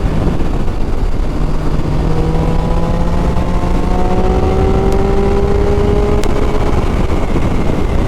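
Triumph Street Triple 675's three-cylinder engine running under way, its note climbing slowly through the middle, under a heavy rush of wind over the microphone.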